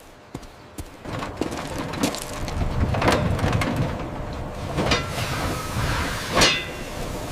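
Train rolling, a rumble building about a second in, with three loud metallic clanks.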